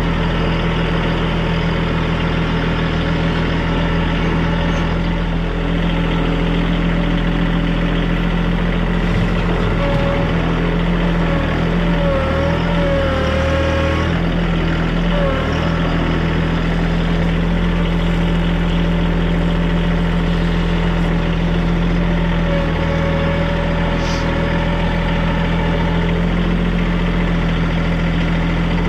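Small TYM compact tractor's diesel engine running steadily under load, with a wavering whine rising and falling around the middle and again near the end.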